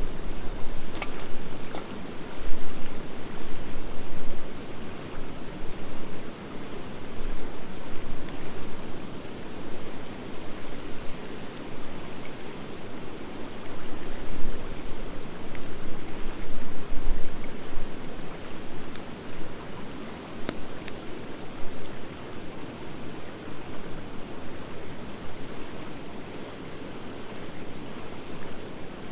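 Wood fire of driftwood and dry hardwood burning in a metal fire pit: a steady hiss of flames with a few sharp crackling pops.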